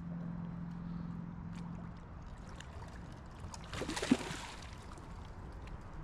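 Water sloshing and lapping around a kayak while a hooked bass is being fought, with small scattered ticks and a brief louder splash about four seconds in.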